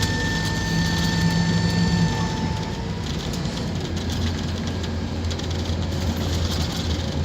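Scania K230UB Omnilink bus running, its diesel engine giving a steady low drone, with a thin whine that stops about two and a half seconds in.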